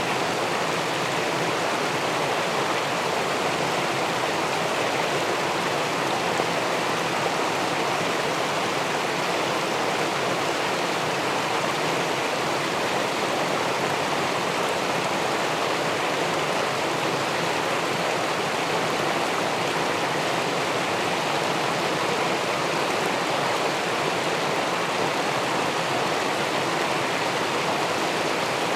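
River water rushing and pouring below a low weir, a steady, even sound of moving water.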